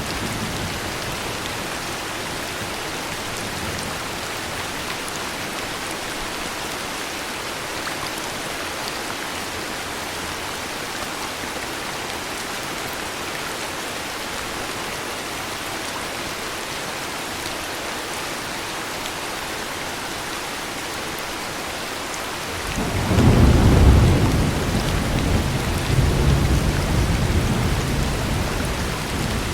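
Heavy rain falling steadily with a hiss. About 23 seconds in, a deep roll of thunder builds, peaks a second later and rumbles on to the end.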